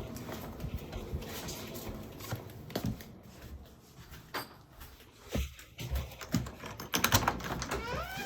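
Irregular light taps and clicks over a faint rustle, with a quick run of clicks near the end.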